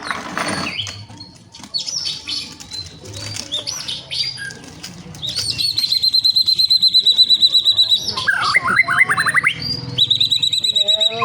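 White-rumped shama (murai batu) singing: varied whistled phrases, then a long, rapid high trill from about five seconds in, followed by a run of fast sweeping notes and another high trill near the end.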